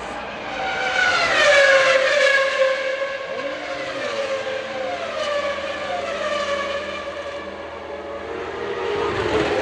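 Formula One racing car engines at high revs, their pitch falling as the cars go past and brake, several times over, then rising again near the end as they accelerate.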